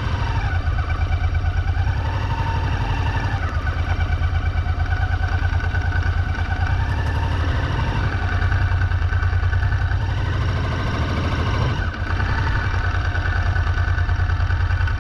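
Honda Transalp 700's V-twin engine running under way, a steady pulsing throb whose pitch rises and falls a little with the road speed. There is a brief dip about twelve seconds in.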